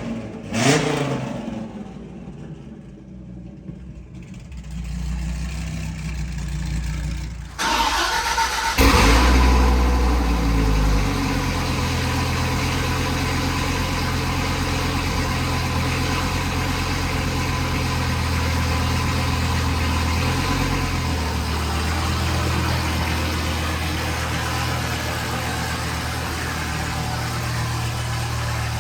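Dodge Viper's 8.0-litre V10 through a Corsa cat-back exhaust: a short burst that dies away, then the engine starting and catching about nine seconds in with a loud flare. It then settles into a steady, deep idle.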